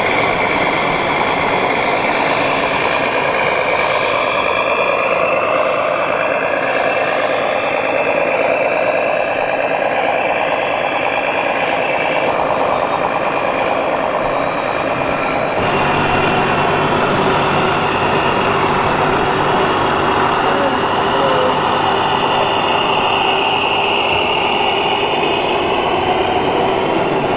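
1/14-scale RC construction machines running: a steady, dense mix of engine-like running and electric motor whines that slowly rise and fall in pitch. The sound changes abruptly about 12 and again about 16 seconds in.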